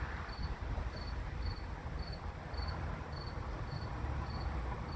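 A cricket chirping steadily, about two short high chirps a second, over a low background rumble.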